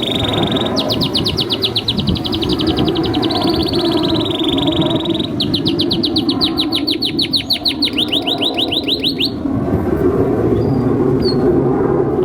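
Canary singing: a held high whistle, then long rapid trills of repeated notes, about six a second, stopping about three seconds before the end. A steady low background noise runs beneath.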